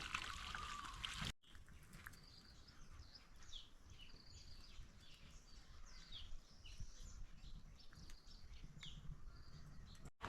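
Birds chirping in a quick series of short, high, mostly falling chirps over faint low outdoor background noise.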